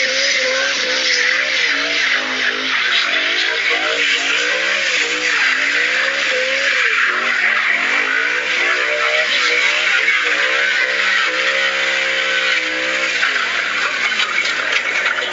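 A car engine revving up and down, with tyre squeal and a loud steady hiss. It starts and stops abruptly, like an inserted clip.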